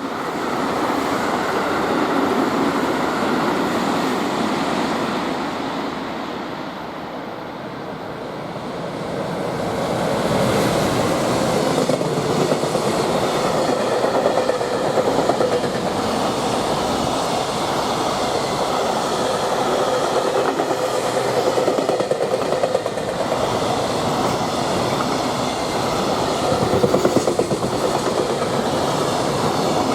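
Freight train hauled by an EF210 electric locomotive passing at speed, with a steady rushing rumble and the wagons' wheels clattering rhythmically over the rail joints. It grows louder about a third of the way through and stays loud as the wagons go by.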